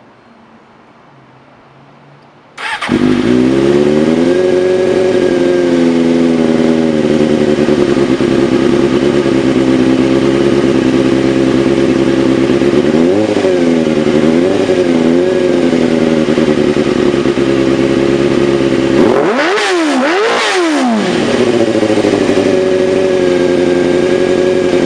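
Loud 2003 Suzuki GSX-R600 inline-four with an aftermarket Scorpion exhaust. It starts a little under three seconds in and settles to idle, with a few light throttle blips in the middle. Near the end come two sharp high revs before it drops back to idle.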